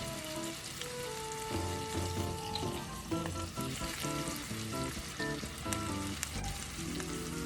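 Chicken and vegetables sizzling as they fry in a hot skillet, a steady crackling hiss with small pops, under background music.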